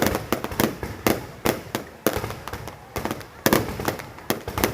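Fireworks going off: an irregular run of sharp bangs and crackles, several a second, each trailing off in an echo, with the loudest bangs a little past the middle.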